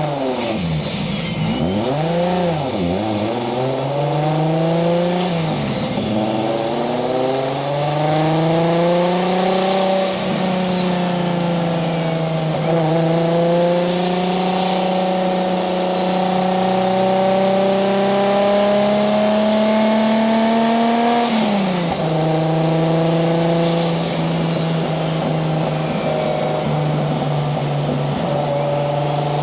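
Nissan 240SX's swapped Toyota 1JZ-GTE VVTi straight-six with a single turbo, revving up and down a few times, then pulling up through the revs and holding, and dropping sharply when backed off about three-quarters of the way through before running steady. A high turbo whistle rises and falls with each pull.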